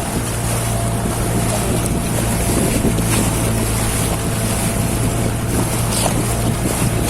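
Motorboat engine running at a steady pitch, with water rushing past the hull and wind buffeting the microphone.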